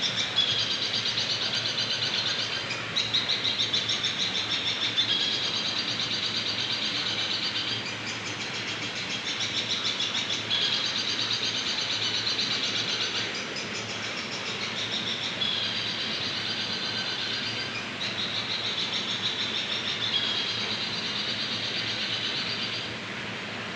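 Bird chirping in fast, high trills, repeated in phrases of about two to three seconds with short gaps between them.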